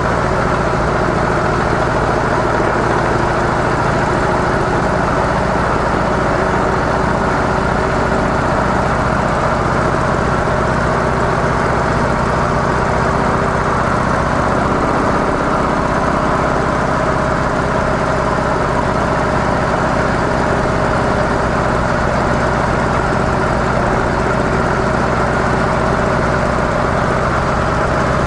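Harley-Davidson CVO Softail Deluxe's 110-cubic-inch V-twin engine running steadily through its stock mufflers, under a steady rush of noise.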